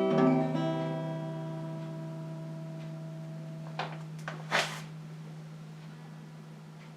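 The final acoustic guitar chord of a song rings on and slowly fades away. Two short faint noises come about halfway through.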